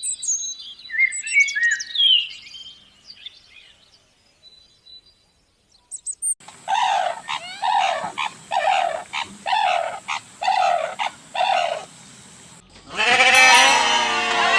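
Birds chirping, then a gap. Next comes a series of about eight short, evenly spaced animal calls, and near the end a flock of livestock bleating all together.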